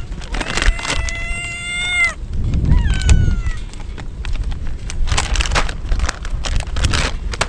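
A kitten meowing: one long, high cry held for over a second, then a shorter cry that falls in pitch. In the second half, a run of short crackling noises over a low rumble.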